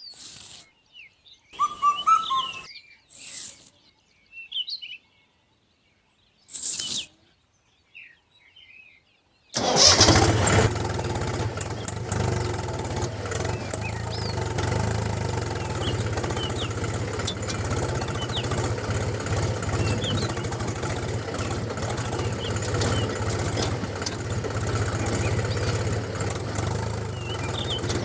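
Scattered bird calls and chirps with silence between them. About nine seconds in, an engine starts abruptly and runs steadily with a low hum, birds still chirping over it.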